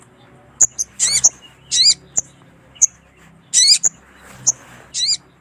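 Little spiderhunter (sogon) calling, described as a female calling to males: sharp high chips mixed with four longer warbling calls that zigzag up and down in pitch, about one a second.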